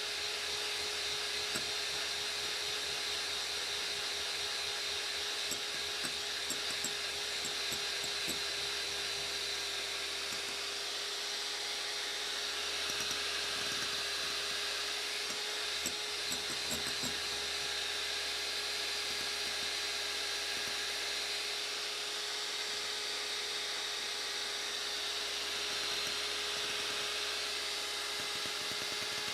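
Electric hand mixer running steadily at high speed, whipping eggs and sugar into foam. A constant motor whine with a few light clicks.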